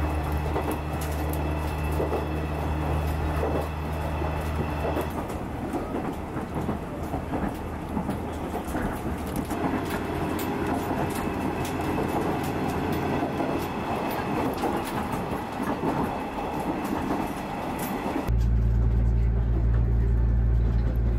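Diesel railcar running, heard from inside the passenger car: a steady low engine drone under rail and wheel noise with scattered clicks. About eighteen seconds in it changes abruptly to a louder, steadier low hum.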